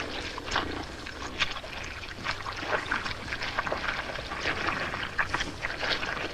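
Hippos crowded in a shallow, drying mud pool, their bodies shifting in water and mud with irregular wet splashing and sloshing.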